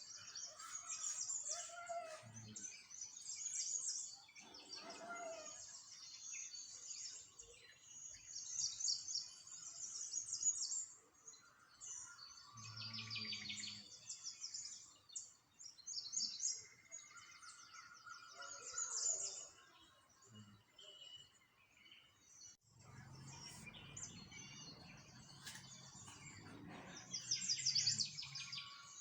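Small songbirds chirping and twittering in quick, high trills, one burst after another, with a faint low rumble in the background about halfway through and again near the end.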